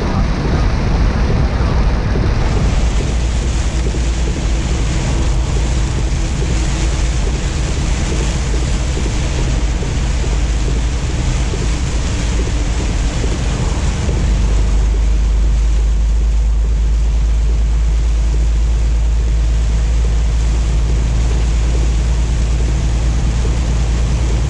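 Semi-truck driving in heavy rain: a steady low diesel engine drone under a hiss of tyre spray and rain. About halfway through the low drone grows louder while the hiss eases.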